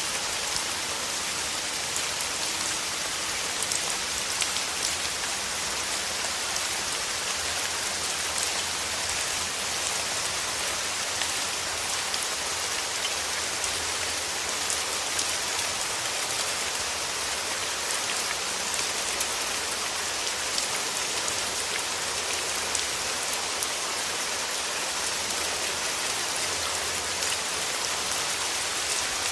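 Steady rain: a dense, even hiss with many scattered sharper drop ticks.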